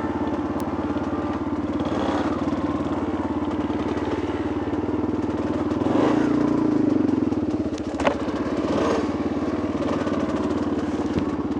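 Two-stroke dirt bike engine running at low revs, with a brief rev about six seconds in and a sharp knock a couple of seconds later.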